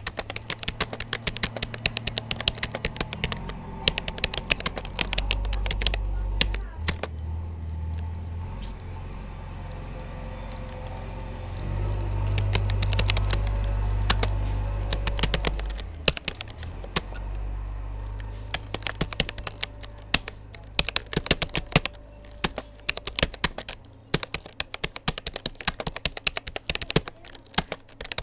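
Typing on a Rapoo computer keyboard: quick, irregular key clicks that thin out briefly near the middle. A low rumble runs underneath and swells for a few seconds midway.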